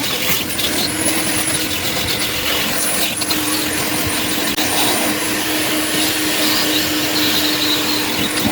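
Coin-operated car-wash vacuum running steadily with a steady hum, a rushing suction noise and a faint high whistle as it vacuums the car's interior.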